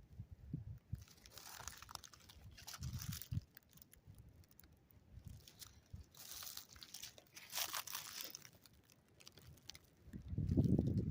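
Irregular rustling and crunching, a few scattered bursts at a time, then a louder low rumble of wind buffeting the microphone about ten seconds in.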